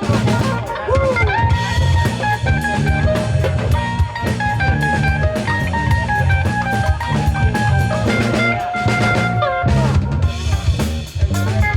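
Live funk-rock band playing an instrumental passage: a drum kit with kick and rimshots and electric bass lay down a steady groove under a lead electric guitar line. The guitar plays held notes with string bends, including a long sustained note that bends down near the end.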